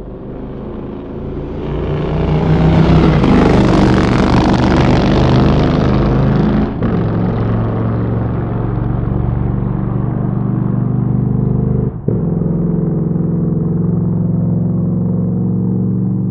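Motorcycle engine running hard. It grows louder over the first few seconds, breaks off briefly twice, about seven and twelve seconds in, and then holds a steady pitch.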